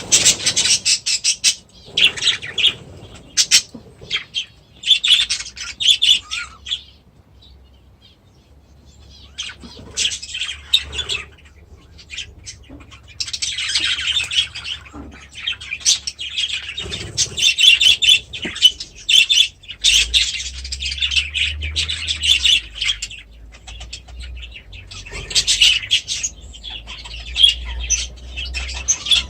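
Small aviary birds chirping and chattering in bursts, with short pauses between and a quieter spell about seven to nine seconds in. A low rumble sits under the later part.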